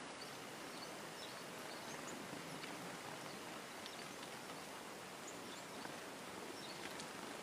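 Steady outdoor hiss of open air with faint, scattered short high chirps from small birds, black-capped chickadees coming in to feed.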